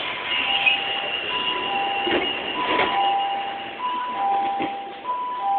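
Two-tone electronic warning beeper on a train, alternating a higher and a lower tone, about one high-low pair every 1.3 seconds without a break, over a steady background of train noise.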